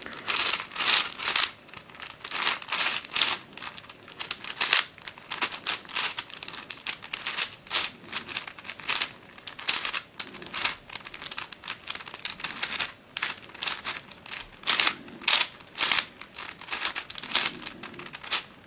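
Plastic layers of a 4x4x6 shapeshifting cuboid twisty puzzle being turned quickly to scramble it: rapid, irregular clicking and clacking.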